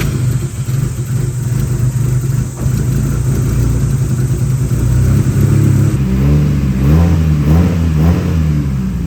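Nissan Silvia S15's four-cylinder engine running at a steady idle just after starting. About six seconds in it is blipped several times, the pitch rising and falling quickly.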